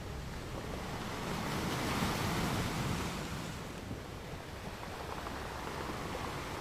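Ocean surf: a steady wash of waves, swelling a little about two seconds in and easing off again shortly after.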